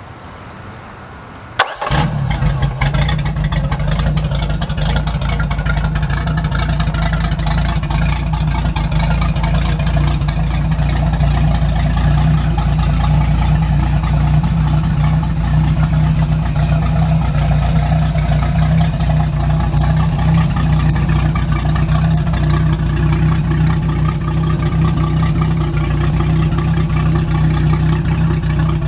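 1996 MerCruiser 4.3-litre Vortec V6 marine engine with a four-barrel carburettor, starting with a short crank and a sharp click about a second and a half in, then running steadily. It runs smoothly, with no ticks or rattles.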